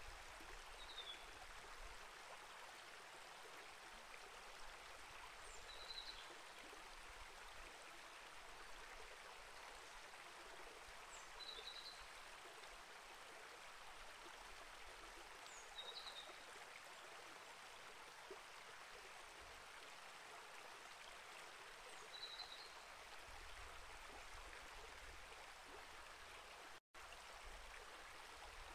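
Small rainforest creek flowing steadily, a soft even rush of water, with a bird giving a short high chirp about every five seconds. A split-second dropout cuts the sound near the end.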